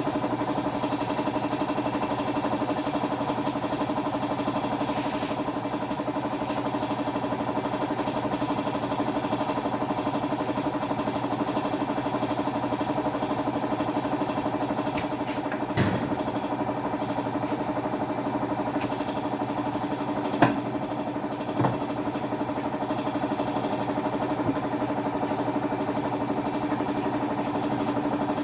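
A motor running steadily at an even pitch, with a few sharp clicks and knocks about halfway through.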